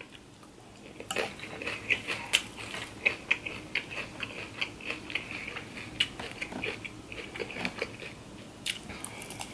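Close-up chewing of a crunchy salad of raw cabbage, kale and lettuce: an irregular run of crisp crunches and wet mouth clicks, with a few sharper clicks of a metal fork against a glass dish.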